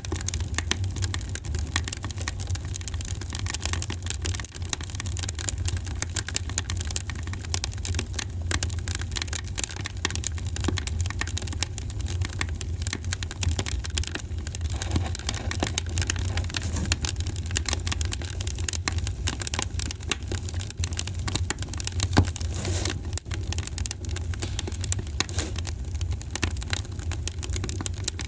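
Wood fire crackling and popping in a fireplace over a steady low rumble, with one louder pop about three-quarters of the way through.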